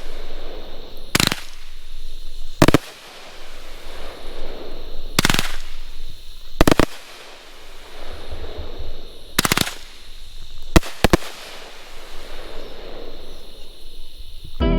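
World Class 'Poser' 25-shot 500-gram consumer fireworks cake firing its shots of white meteor rain. About eight sharp, loud reports come at irregular gaps of one to two and a half seconds, two of them close together about eleven seconds in, with a noisy hiss trailing between shots.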